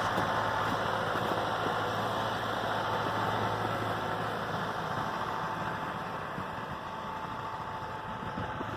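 New Holland cab tractor's diesel engine running steadily at a low, even speed.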